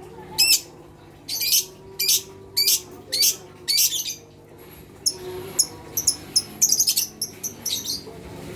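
A flock of lovebirds calling: a run of shrill, high-pitched shrieks about every half second, then, after a short pause, a faster cluster of short chirps.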